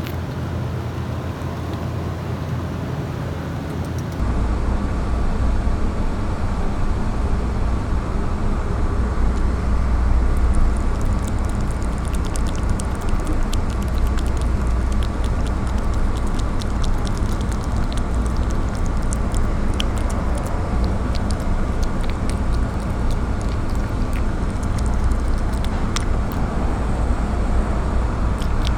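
Steady outdoor background rumble, with the low end getting louder about four seconds in and scattered faint clicks from about ten seconds on.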